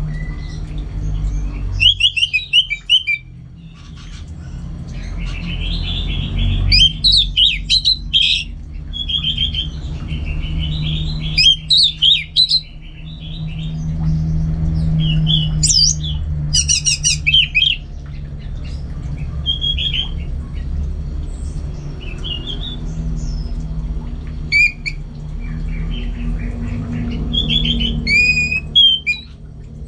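Orange-headed thrush singing in short bursts of quick, varied, high notes separated by pauses, over a steady low hum.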